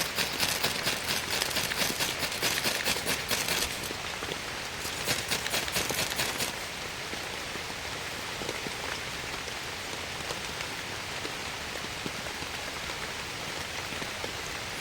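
Heavy rain falling, with dense, close pattering of drops in the first few seconds and again around five seconds in, then settling into a steady even hiss.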